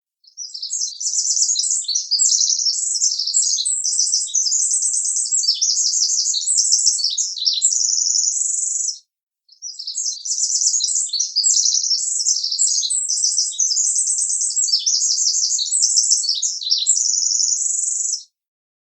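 Bird-song alarm sound: a rapid, high twittering song that plays for about nine seconds, stops briefly, then plays again the same way.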